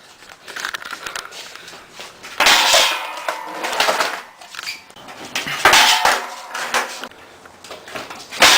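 Skateboard clattering and scraping: two long noisy stretches of the deck and wheels knocking and sliding on a hard surface, with a third clatter near the end.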